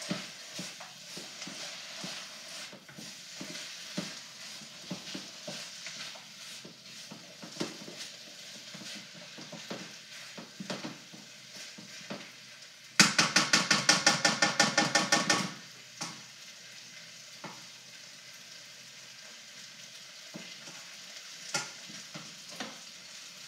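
Fried rice sizzling in a hot wok while a spatula stirs and scrapes it, with scattered clicks of the spatula against the pan. About halfway through comes a loud, rapid run of strokes, about five a second, for a couple of seconds.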